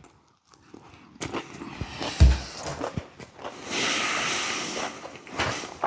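A person eating close to the microphone: soft chewing and handling noises with a low thump, then a long breath out lasting about a second and a half.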